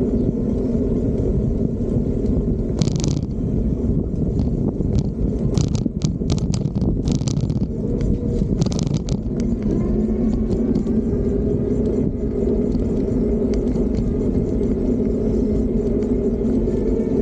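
Steady low rumble of a Fiido D3 Pro electric bike being ridden, with a few short sharp rattles or scrapes about three to nine seconds in, and a faint tone slowly rising near the end.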